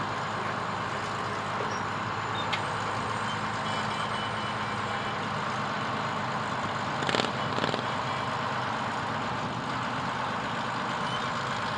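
Fire truck's engine running steadily while the truck drives slowly, a constant drone, with two short bursts of noise about seven seconds in.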